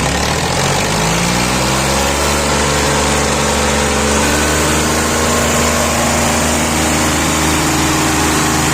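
Swaraj 744 tractor's diesel engine running, its speed rising over the first couple of seconds and then holding steady.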